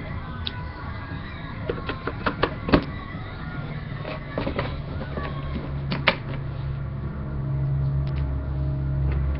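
Plastic LEGO pieces being handled and snapped together: a scatter of sharp clicks, clustered around the middle, with the loudest about three and six seconds in. A low steady hum grows louder through the second half.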